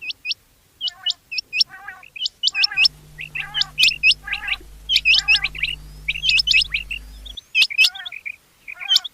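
Rain quail calling: sharp, high, upswept notes given in quick pairs and repeated, with lower buzzy notes in between. A steady low hum comes in about three seconds in and stops about seven seconds in.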